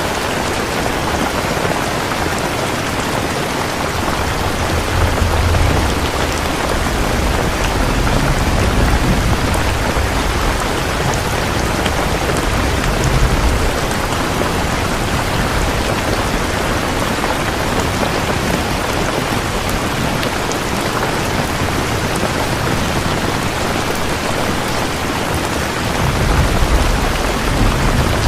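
Steady heavy rain falling, with low rumbles of thunder swelling a few times: about five seconds in, again for several seconds in the middle, and near the end.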